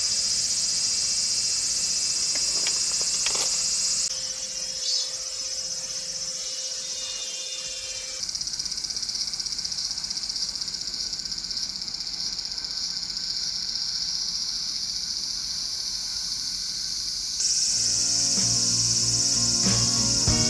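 A chorus of crickets and other insects chirping, a steady high-pitched trill that shifts in loudness abruptly a few times. Near the end, guitar music comes in over it.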